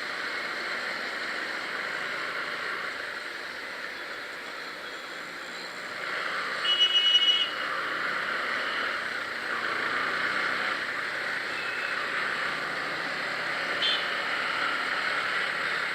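Steady wind and road rush heard from a moving motorcycle in traffic, with a short burst of vehicle horn beeps about seven seconds in and a brief beep near the end.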